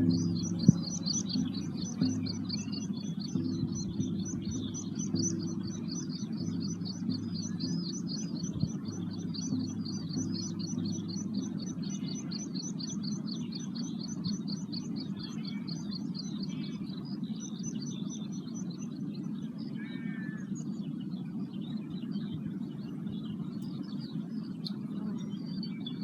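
Birds singing in the open: one bird gives a long, fast run of high repeated notes, about four a second, that stops about two-thirds of the way in, with other short calls scattered around it. Beneath it runs a steady low rumble.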